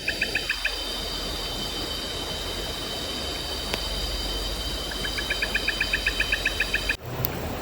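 Tropical forest night ambience: a steady rushing noise with insects droning at a steady high pitch. A rapid chirping call of about eight pulses a second comes briefly at the start and again from about five seconds in. The sound changes abruptly near the end.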